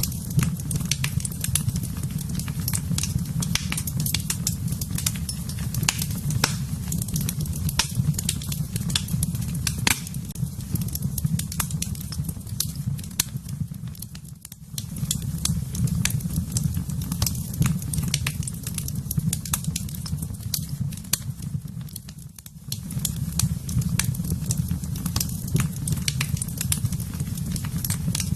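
Wood fire burning in a fireplace, crackling with frequent sharp pops over a steady low rumble. The rumble drops away briefly about halfway through and again about three-quarters of the way through.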